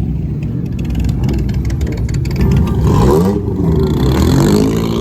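Car engine running loudly and revving, its pitch climbing and falling, with the biggest rise about three seconds in.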